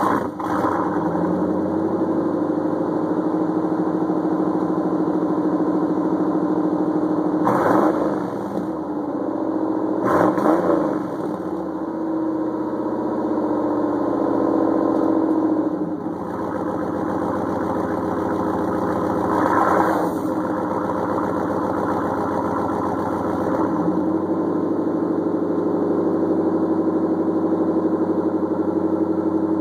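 GMC pickup's 305 small-block V8 heard at the exhaust, idling just after starting, with three brief throttle blips in the first two-thirds before settling into a steady idle.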